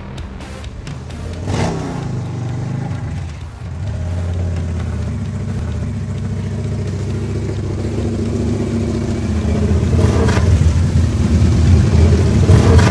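Custom Victory Gunner motorcycle's V-twin engine running through aftermarket pipes, revved a few times and getting louder toward the end.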